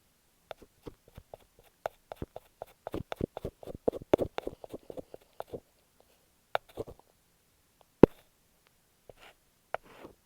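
Close-up taps and scratches on masking tape stuck over an earphone microphone: scattered clicks, a quick flurry of them in the middle, then a few more, with one sharp, louder tap about eight seconds in.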